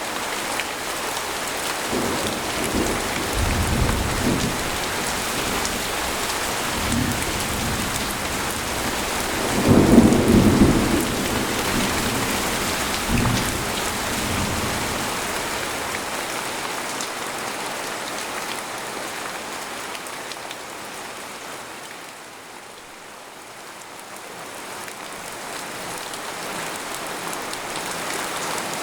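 Steady rain falling on a tent, with rolls of thunder rumbling a couple of seconds in and loudest about ten seconds in. The rain eases past the twenty-second mark, then builds again.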